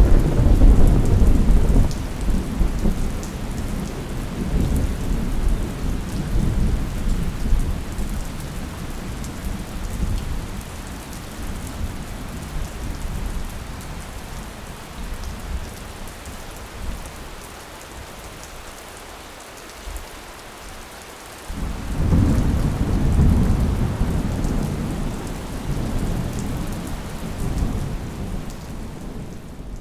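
Thunderstorm: steady rain falling with two long rolls of thunder. The first breaks right at the start and rumbles away over about fifteen seconds; the second breaks suddenly about twenty-one seconds in and fades toward the end.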